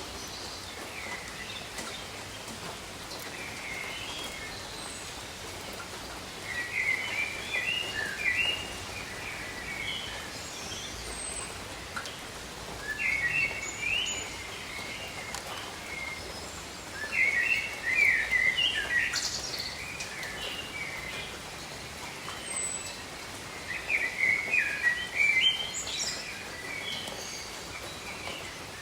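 Steady rain falling, with a songbird breaking in four times with short bursts of quick chirping song, each a second or two long.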